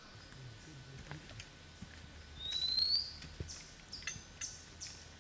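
Wild birds singing: a rising whistle about two and a half seconds in, followed by a few short, high notes.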